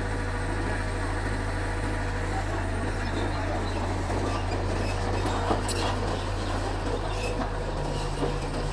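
Mitsubishi bulldozer's diesel engine running steadily, with a few sharp knocks about five and a half seconds in.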